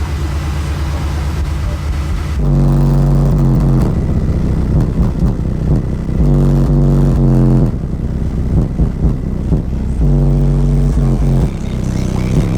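A high-power car audio system playing bass-heavy music very loud through its subwoofers. Long, deep bass notes cut in and out in blocks, the strongest starting about two and a half seconds in, again about six seconds in and about ten seconds in.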